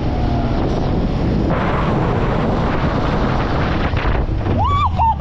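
Boat motor running steadily, with wind buffeting the microphone and a louder rushing noise for a couple of seconds in the middle. A voice calls out near the end.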